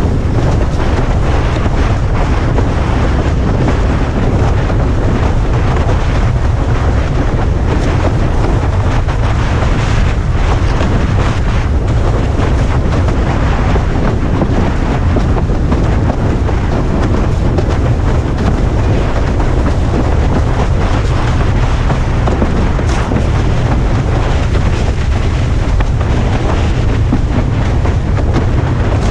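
Steady, loud wind buffeting on a head-mounted action camera's microphone, heaviest in the low rumble, with the rush of water under a windsurf board sailing at speed.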